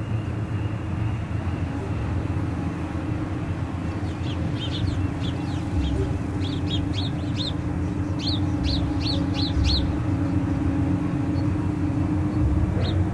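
Steady low hum of a ship's engines, with a run of about twenty short, high bird calls from about four to ten seconds in and one more near the end.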